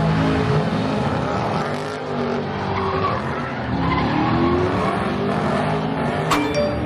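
A car doing a burnout: tyres squealing and smoking against the pavement while the engine revs up and down over and over.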